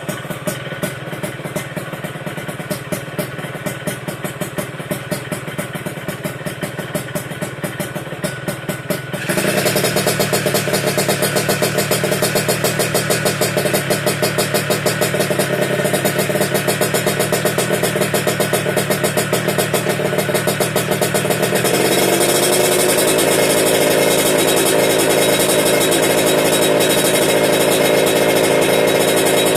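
Yamaha RX-King 135 cc two-stroke single running through an SPR Racing aftermarket exhaust: idling with short blips, then held at higher revs from about nine seconds in, stepping up again around twenty-two seconds.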